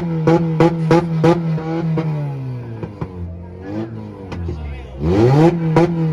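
Honda car engine held on a two-step rev limiter, with sharp limiter pops about three times a second. About two seconds in, the revs drop and are blipped lower. Near the end they climb back onto the limiter with the popping again.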